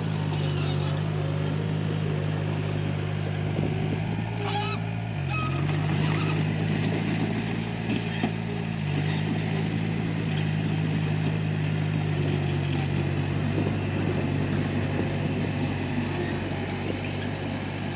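Komatsu D31P bulldozer's diesel engine running steadily, its pitch dipping briefly about five seconds in, with a few knocks over it.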